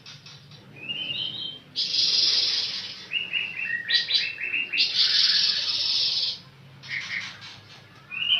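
Pancawarna songbird singing: a short rising trill, then loud harsh chattering phrases broken by runs of quick stepped notes. It pauses about six seconds in and starts again near the end.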